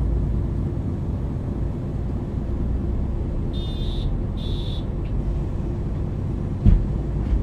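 Diesel engine of a MAN NL 323 city bus running steadily, heard from inside the bus. Two short high electronic beeps a little past halfway, and a single thump near the end.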